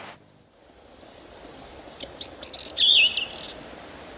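Small songbird chirping over a steady background hiss: a few quick high chirps about two seconds in, then a louder swooping call about three seconds in.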